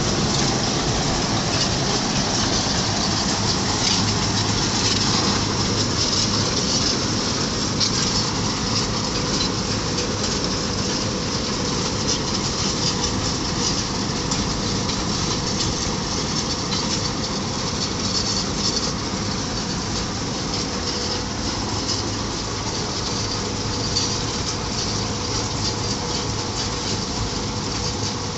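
Diesel road milling machine running under load, its cutting drum grinding off the bituminous (DBM) asphalt layer. The grinding is a steady, continuous harsh noise with a lot of high hiss over the engine's low drone.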